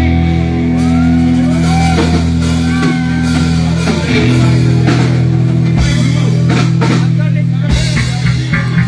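Live electric blues-rock band playing an instrumental passage: electric guitar with bent notes over held bass notes and a drum kit. The bends come in the first few seconds.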